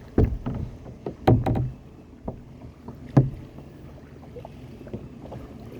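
Knocks and bumps on a kayak, the loudest about a second in and again about three seconds in, over a low steady rumble of water and wind.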